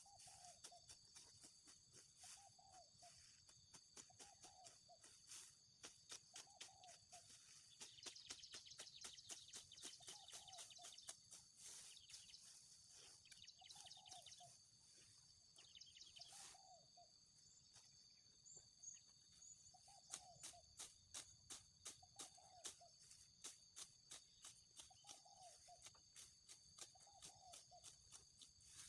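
A sickle cutting grass, a dense run of crisp clicks as the blade slices through the stems. Behind it a bird repeats a short falling call about every two seconds, over a steady high buzz of insects.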